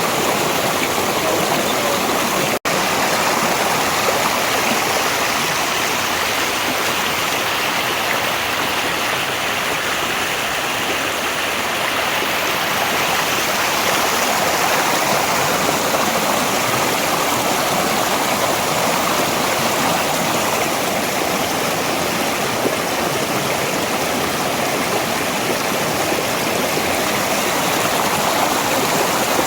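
Mountain valley stream running, a steady, continuous rush of flowing water. The sound drops out for an instant about two and a half seconds in.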